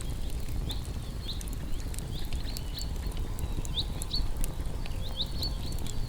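Campfire of burning wood crackling, with frequent sharp pops over a steady low rumble, and short high chirps or squeaks coming every second or so.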